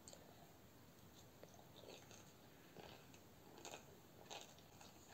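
Faint mouth sounds of a person chewing a forkful of pickled vegetable, with a few soft crunches roughly a second apart from about two seconds in.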